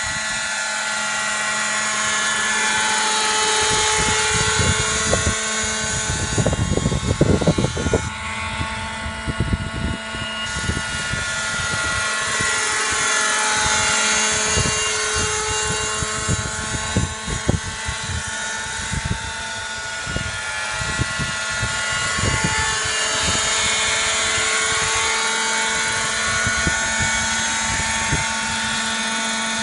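Robinson helicopter running steadily, a whine made of several tones that drift slightly in pitch, with irregular low rumbling throughout that is heaviest about six to eight seconds in.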